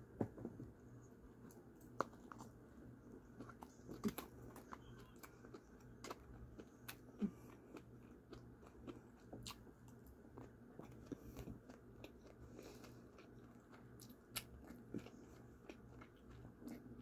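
A person chewing and biting broccoli and rice close to the microphone: faint mouth clicks and smacks at irregular moments, a few of them sharper, over a low steady hum.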